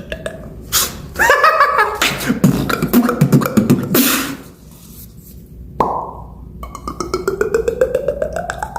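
A beatboxer making vocal sound effects with his mouth. A sharp hiss and a dense run of clicks and buzzing come first, then, after a short pause, a pulsed buzzing tone that rises steadily in pitch.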